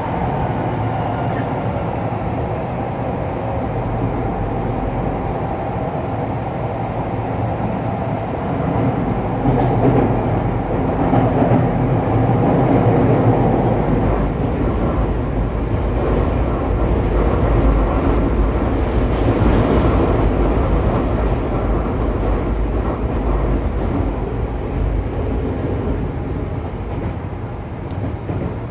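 Onboard running sound of a Saitama Railway 2000 series electric train: wheels rolling on the rails with the traction motors humming, growing louder about ten seconds in.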